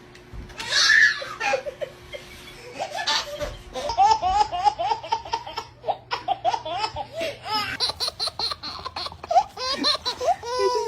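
A person laughing hard, with a fast run of repeated laughs from about four seconds in.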